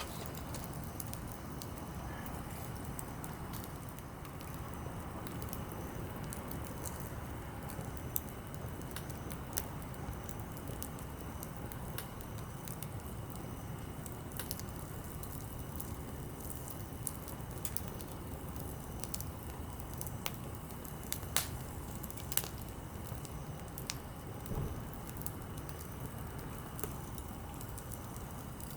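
Small wood campfire burning steadily with a low rush, with scattered sharp crackles and an occasional louder pop from the firewood.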